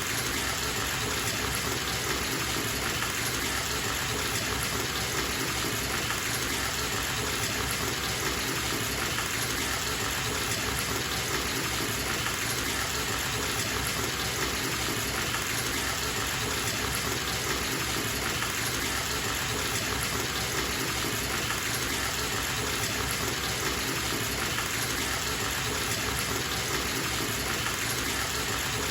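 Tap running steadily into a bathtub, a constant even rush of water.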